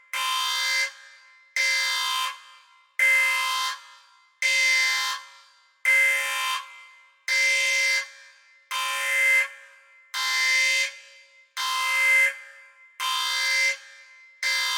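Alarm sound effect: a harsh, buzzing alarm horn blaring in evenly repeated blasts, about one every second and a half, each trailing off briefly before the next.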